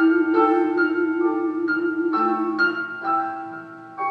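Instrumental backing music between sung lines: ringing, bell-like chords struck about twice a second over a held low note, dying away near the end before the next chord.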